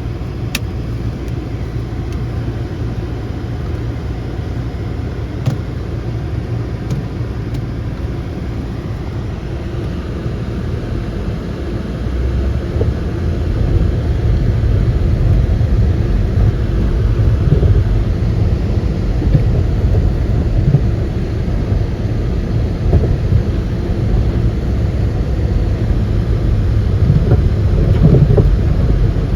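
Volvo B5204T 2.0-litre turbocharged five-cylinder engine in a 2006 S60 running steadily. It gets louder about twelve seconds in and stays louder.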